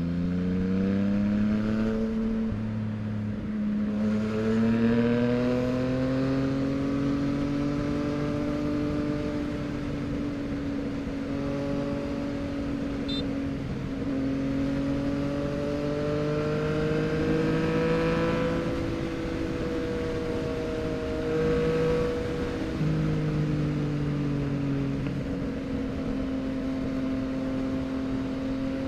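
Yamaha MT-09's inline three-cylinder engine through a full Mexx aftermarket exhaust, under way on the road. Its pitch climbs in the first second, then drifts slowly up and down with the throttle.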